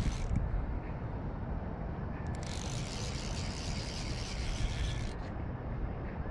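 A cheap fly reel's click-pawl ratchet buzzing as line runs through it while a heavy fish is played, busiest for a few seconds in the middle, over a steady low rumble.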